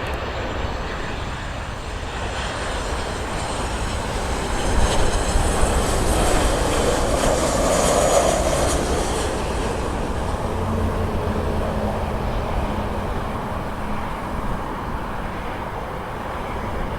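Jet airliner passing close by on landing, a steady rushing noise with a faint high whine that swells to its loudest around the middle and then fades.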